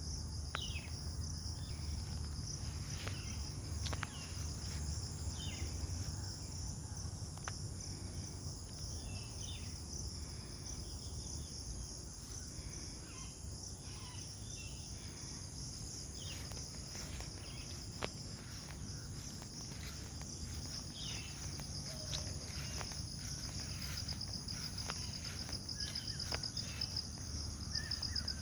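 A steady, high-pitched chorus of insects trilling without a break, with short bird chirps scattered through it and a low background rumble underneath.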